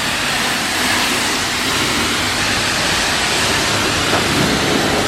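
Car wash water spray: a loud, steady rush of water hitting the car.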